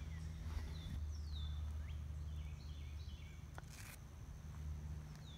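Birds chirping and calling over a steady low hum: repeated falling whistled notes and short stepped runs of chirps. A brief sharp click with a short hiss comes about two thirds of the way through.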